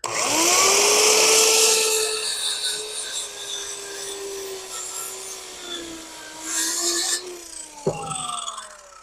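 Handheld circular saw spinning up, crosscutting the end off a rough-sawn board, then winding down with a falling whine after the trigger is let go. One sharp knock comes near the end, during the wind-down.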